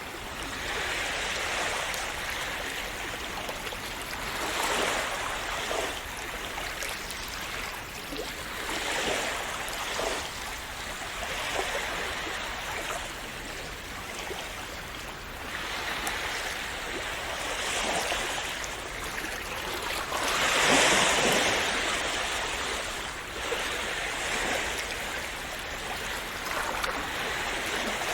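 Small sea waves washing and splashing onto a shore, in swells every few seconds, the biggest about two-thirds of the way through.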